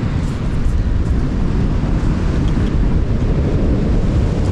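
Steady wind rumbling on the microphone over the wash of surf.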